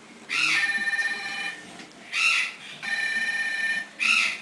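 Parrots calling: a series of loud calls, each opening with a harsh burst and then held as a steady buzzy tone for about a second.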